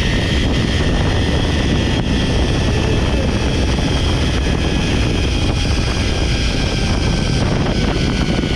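Steady loud rush of wind over the microphone during a zip-line ride, with a faint whine from the trolley's pulleys running along the steel cable that slowly drops in pitch in the second half.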